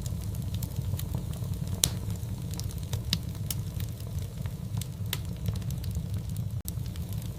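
Wood fire in a fireplace crackling, with irregular sharp pops and snaps over a low, steady rumble of the flames. The loudest pop comes a little under two seconds in.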